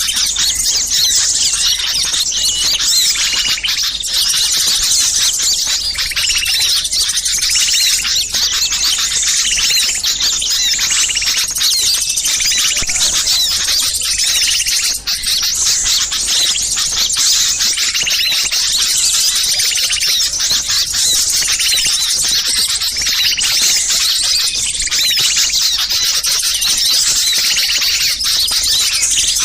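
Dense, unbroken chorus of many small birds chirping and chattering over one another, high-pitched: a lure track of small birds calling agitatedly, the kind of mobbing chatter used to draw wild birds in.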